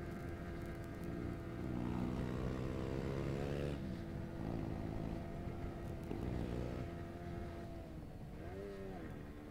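Yamaha R15 V3's single-cylinder engine heard from the rider's seat, accelerating. Its pitch climbs for about two seconds, drops at a gear change about four seconds in, then makes a quick rise and fall near the end, over a steady rush of wind.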